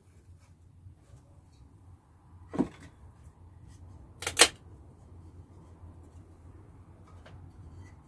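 Hard objects being handled: a knock about two and a half seconds in and a louder quick double clack about four seconds in, over a low steady hum.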